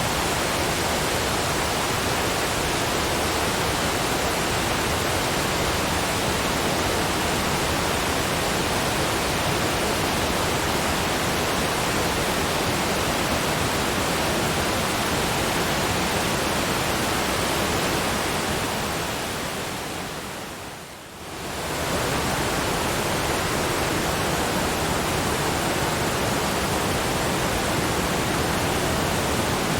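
Waterfall rushing in a steady, even roar of falling water. About two-thirds of the way through it fades down briefly and swells back up to full level.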